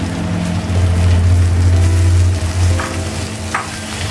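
Chopped tomatoes and onions sizzling in hot oil in a nonstick frying pan as they are stirred with a metal slotted spoon, which scrapes and knocks against the pan a couple of times near the end. A low hum sounds under it, loudest in the first half.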